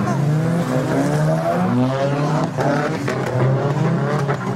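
A group of drift cars running hard in tandem: several engines revving at once, their pitches rising and falling with throttle and gear changes. A few short sharp cracks come about halfway through.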